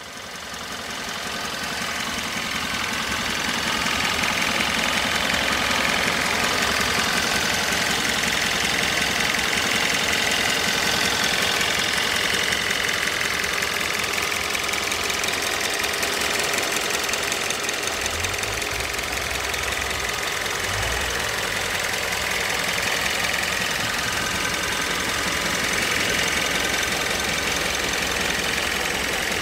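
2017 Hyundai Sonata's 2.4-litre GDI inline-four idling steadily, heard up close in the open engine bay. It grows louder over the first few seconds, and a few low bumps come about two-thirds of the way through.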